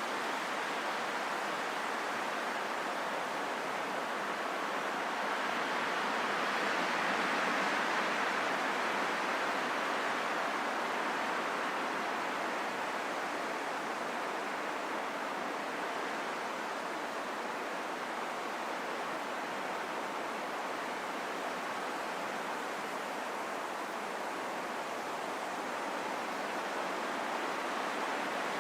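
Steady wind, a soft even rushing that swells a little about six to ten seconds in and then eases back.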